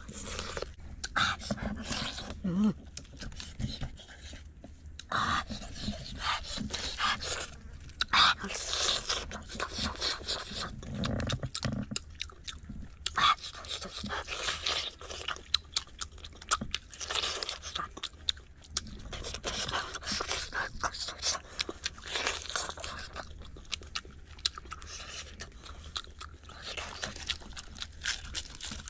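A person eating grilled meat noisily, with irregular chewing, crunching and lip-smacking sounds.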